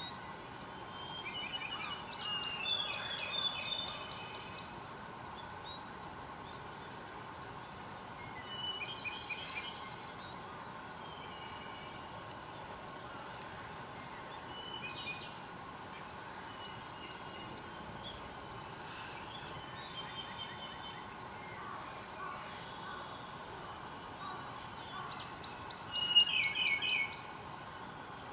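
A wild songbird singing short, fast trilled phrases, repeated every few seconds, the loudest near the start and near the end, over a faint steady background hum.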